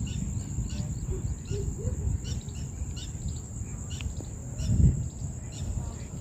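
Small birds chirping in short, scattered calls over a steady high insect drone, with a low rumble underneath that swells briefly about five seconds in.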